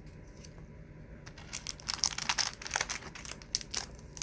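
Crinkling of thin packaging handled by hand: a quick run of crackles begins about a second and a half in, while trading cards and their packs are handled.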